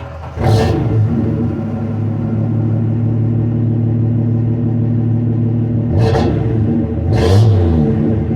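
1966 Dodge Dart's 225 slant six running through a new 2 1/4-inch exhaust with an imitation Flowmaster muffler, a steady low rumble from about half a second in. Near the end the engine is revved up and back down twice in quick succession.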